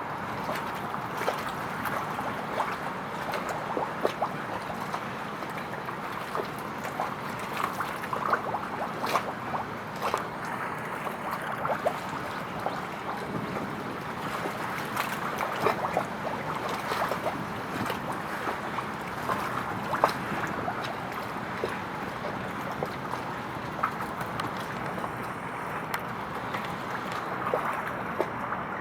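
Steady wash of water and wind, with frequent small splashes and ticks scattered through it.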